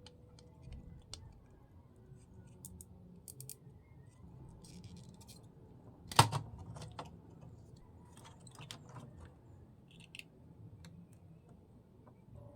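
Scattered light clicks and taps of small hard objects being handled, with one louder knock about six seconds in.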